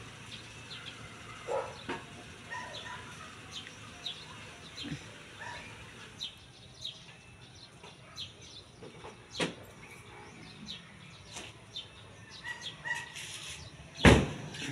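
Birds chirping, with short high falling calls scattered throughout. A single loud, sharp knock comes near the end.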